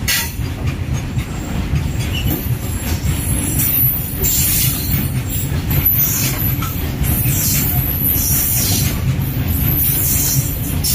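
Indian Railways BOXNHL open freight wagons rolling past at close range: a steady heavy rumble of wheels on rail, with high wheel squeals recurring about once a second from a few seconds in.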